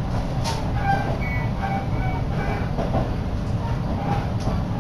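Minobu Line electric train running, heard from inside the carriage: a steady low rumble of wheels on rails.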